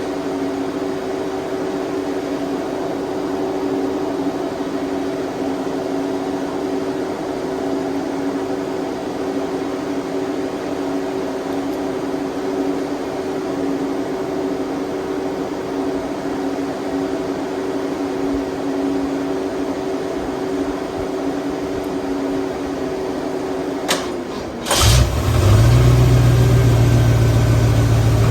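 Electric cooling fans humming steadily. About 25 seconds in, the Ford 351 Windsor V8 cranks briefly, catches and settles into a loud, steady idle.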